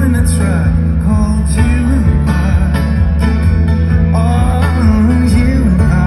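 Loud amplified music from a live band playing a song, with a strong, steady low end.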